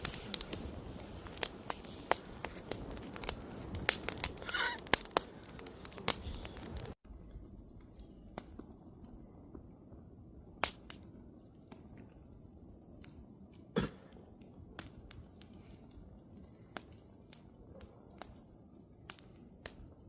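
Wood campfire crackling with frequent sharp pops. About seven seconds in, the sound cuts abruptly to a quieter, sparser crackle.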